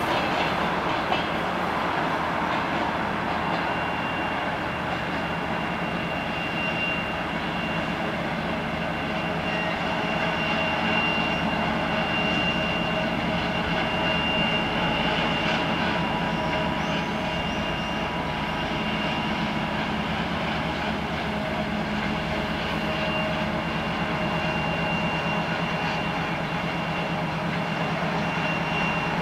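M62 diesel locomotive hauling a passenger train past: the engine runs and the wheels roll steadily over the rails. A thin, steady, high whine comes in about three seconds in.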